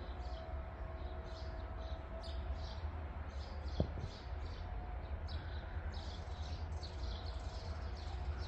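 Small birds chirping, several short high calls a second, over a steady low rumble, with one sharp click about four seconds in.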